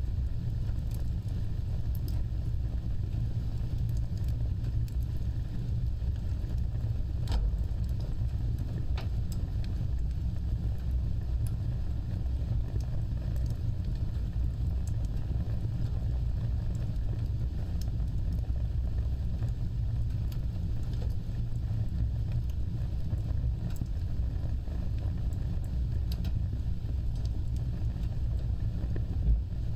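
Wood fire burning with a steady low rumble, broken by sparse crackles and snaps, and one louder pop near the end.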